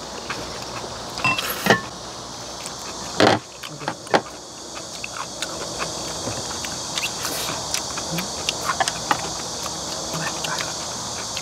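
Close-up eating sounds of two people eating kimchi: chewing, slurping, and chopsticks and spoons clicking against glass bowls. A few louder clinks and a slurp fall in the first four seconds. A steady high-pitched hiss runs underneath.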